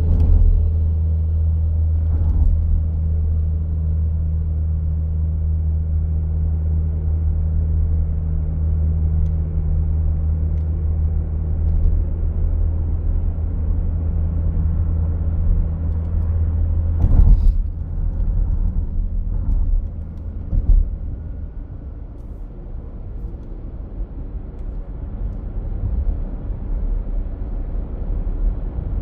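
A vehicle engine running with a steady low drone. About seventeen seconds in comes a brief loud burst of noise, and after it the drone gives way to an uneven rumble.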